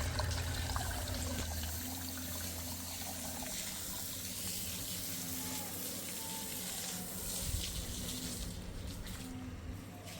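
Water running steadily, a continuous rushing hiss, with a low hum in the first couple of seconds.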